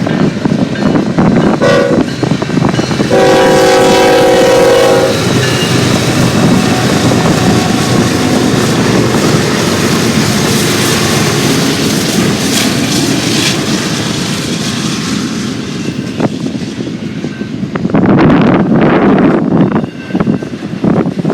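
Freight train passing with its locomotive horn sounding: a short toot about two seconds in, then a longer blast of about two seconds of several notes together. Under and after the horn runs the steady rumble and wheel noise of the passing train.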